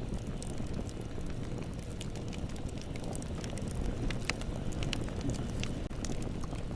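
Bonfire burning with a steady low rumble and scattered sharp crackles and pops from the burning wood.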